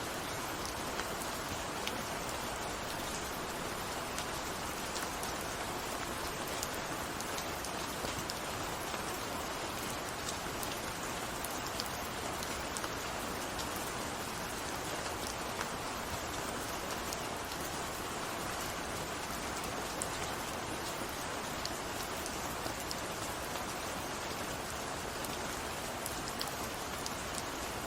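Steady rainfall, an even hiss of rain with many small drops ticking against a surface, unchanging throughout.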